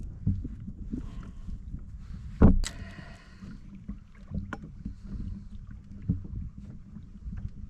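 Knocks and bumps of gear handled on a fishing kayak, over a steady low wind rumble on the microphone; one sharp, loud knock about two and a half seconds in.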